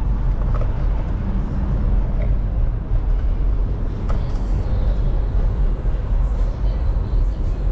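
Steady low wind rumble on the microphone mixed with city street and traffic noise, as heard from a moving bicycle.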